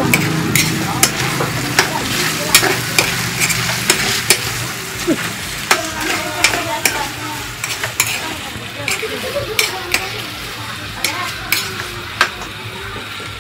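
Chopped pork for sisig frying in a large metal wok, sizzling steadily, while a metal ladle stirs it, scraping and clinking sharply against the pan many times at an uneven pace.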